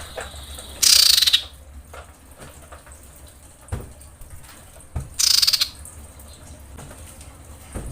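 Female common iora (cipoh) giving two loud, harsh, rapid rattling calls, one about a second in and one about five seconds in: the excited call of a female in breeding condition calling for a male.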